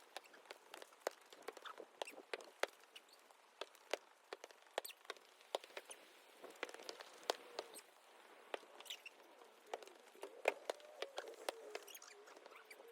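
Faint, irregular small clicks and taps, scattered at an uneven pace.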